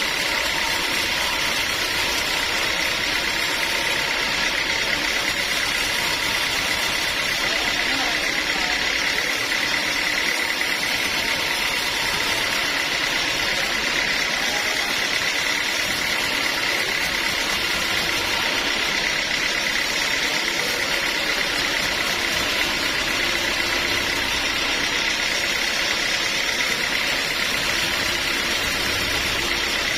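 Sawmill machinery running steadily, with a constant high whine over the machine noise.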